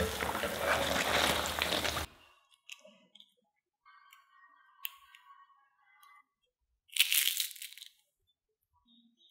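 Potato snacks deep-frying in hot oil, a dense sizzle that cuts off about two seconds in. About seven seconds in, a single crisp crunch as a fried, crispy potato snack is pressed in the fingers.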